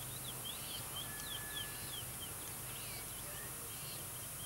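Birds chirping in rainforest: quick, high, down-slurred calls repeating a few times a second, with a thin steady whistle lasting about a second near the start.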